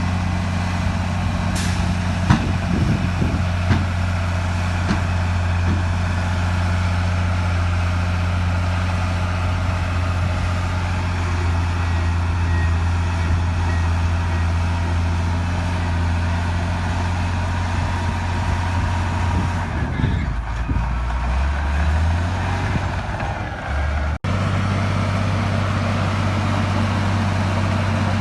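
Heavy diesel earthmoving machinery running steadily under load, with a few sharp metallic clanks in the first few seconds. About twenty seconds in, the engine note drops and wavers, and just after that the sound cuts out for an instant before the steady engine noise returns.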